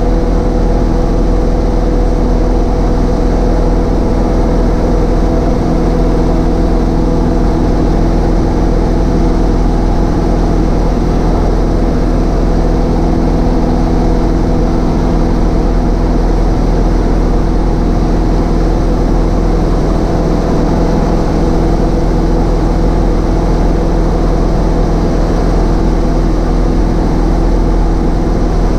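Cessna 152's four-cylinder Lycoming engine and propeller running steadily in flight, a constant loud hum with no change in pitch.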